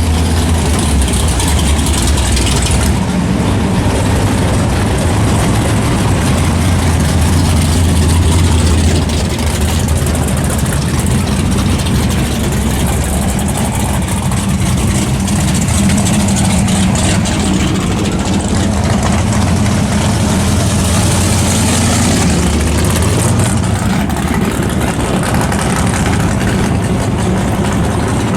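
Car engine running steadily with a low hum that swells and eases a few times, under a steady rush of noise.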